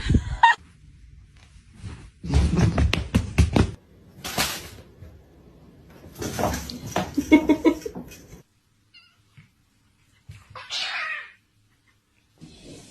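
A cat's drawn-out, wavering yowl about six to eight seconds in, among other short noises, broken by brief dead silences.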